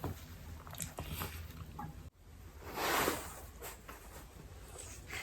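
A person chewing a mouthful of ash-baked potato close to the microphone, with small soft clicks and a short hiss about three seconds in.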